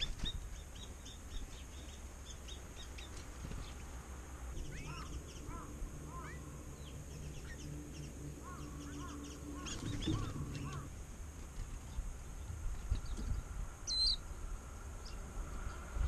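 Wild birds calling: first a quick run of short high chirps, then a string of lower, curving calls, then one sharp high call near the end. A faint low steady hum runs under the middle part.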